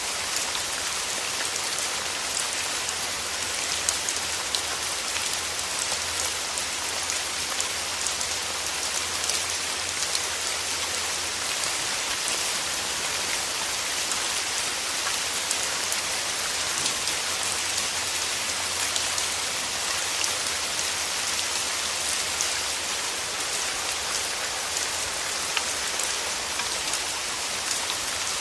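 Steady rain falling, a dense even hiss flecked with the fine patter of individual drops, over a faint low hum.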